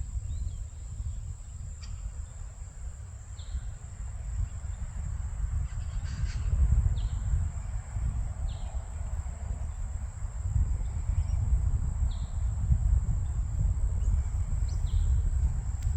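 Outdoor ambience: a low wind rumble on the microphone under a steady high-pitched insect drone, with a few short scattered chirps.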